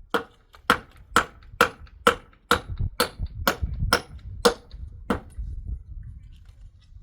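Sharp striking blows in a steady rhythm, about two a second, each with a short ring; they stop about five seconds in.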